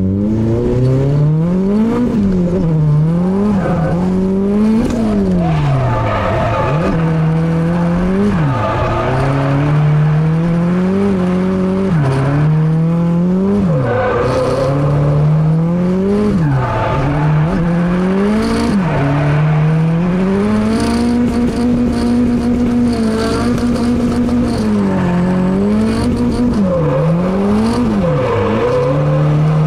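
Honda K24 2.4-litre inline-four in a drift car, heard from inside the cabin, revving hard and dropping back again and again as the driver works the throttle through a drift run. The revs hold high for a few seconds about two-thirds of the way through, and the tyres squeal at times.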